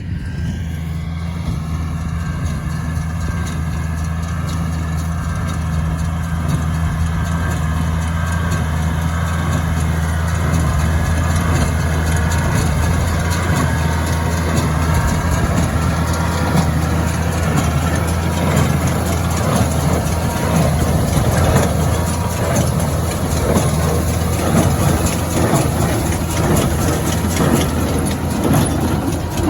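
Oliver 1555 tractor engine running steadily at working speed, with machinery clatter growing louder partway through.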